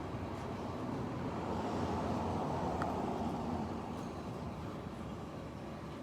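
A vehicle passing: a rushing noise that builds over the first couple of seconds, peaks mid-way and fades again.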